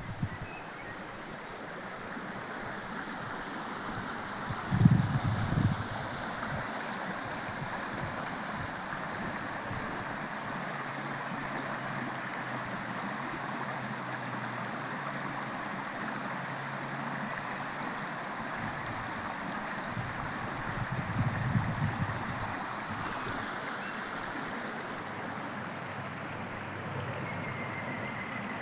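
Steady rush of running water, with two brief low rumbles, one about five seconds in and one about twenty-one seconds in.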